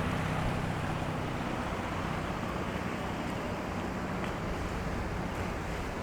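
A boat engine droning on the harbour, with a low hum that fades after about a second and a half, under steady wind and water noise.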